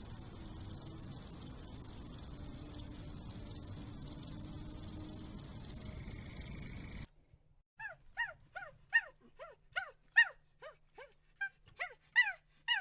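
A steady, high-pitched insect drone, cricket-like, that cuts off abruptly about seven seconds in. It is followed by a rapid series of short calls from another animal, each falling in pitch, about two a second and growing louder toward the end.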